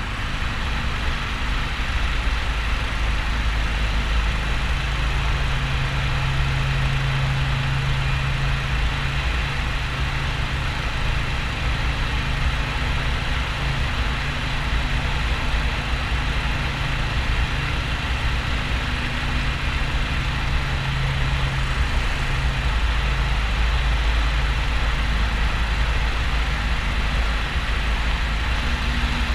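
Harley-Davidson XL1200N Sportster's V-twin engine running steadily, with wind and road noise.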